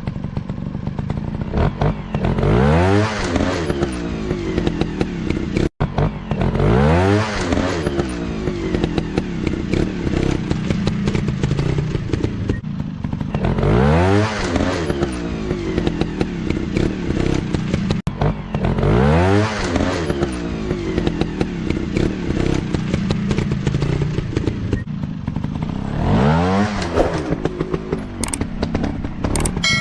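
Trail motorcycle engines revving hard in repeated surges, the pitch climbing and falling back about every five to seven seconds.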